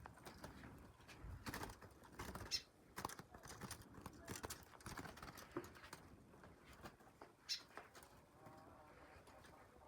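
Faint scattered clicks and knocks over a low background hiss. The sharpest come about two and a half seconds in and again about seven and a half seconds in.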